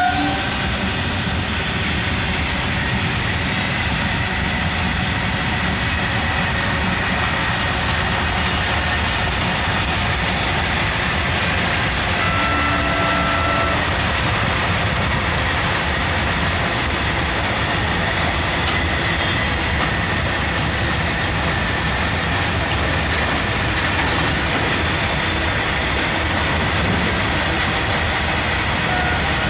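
A long freight train of open box wagons rolling past, its wheels giving a steady rumble with clickety-clack over the rail joints. A thin, steady high squeal runs along with it, and a short tone sounds about halfway through.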